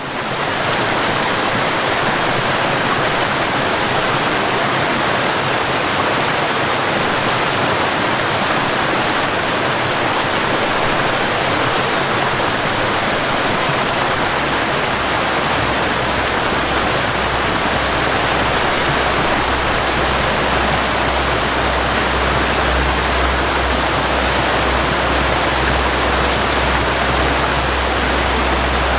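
Steady rushing water that fades in at the start, with a low rumble that strengthens about halfway through.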